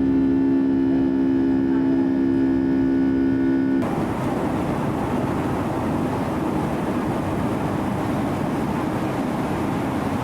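Boeing 757 cabin with the jet engines running, a steady multi-tone whine over a rushing background. About four seconds in, the sound cuts abruptly to a steady rushing airflow noise without the whine.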